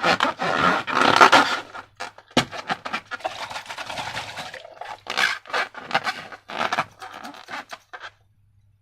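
Slime being worked by hand: irregular, sticky squishing and crackling, with one sharp knock about two and a half seconds in. It stops shortly before the end.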